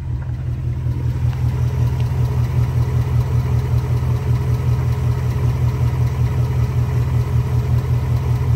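2022 Ford Mustang GT's 5.0-litre Coyote V8 idling, with a fast ticking over the steady engine note, heard from low beside the front wheel. It is the Coyote engine tick that Ford calls a normal operating noise and that some owners put down to piston slap.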